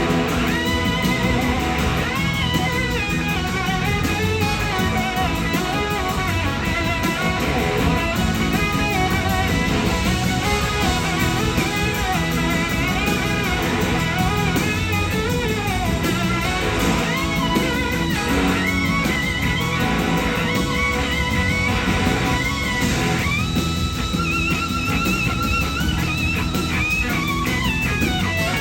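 Electric slide guitar soloing over a live band with drums and bass. The lead line glides and wavers between notes, and near the end it holds one long note with vibrato.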